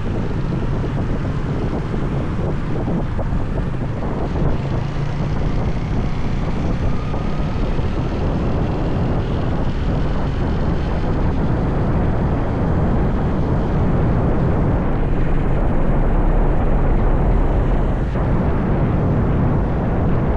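Motorbike being ridden, its engine running steadily under wind rushing over the microphone.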